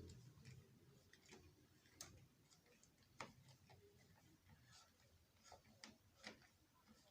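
Near silence broken by faint, irregular small clicks and taps, the loudest about two and three seconds in.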